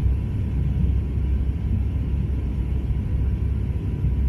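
Steady low rumble of airliner cabin noise, the engines and rushing air heard from inside the cabin during descent.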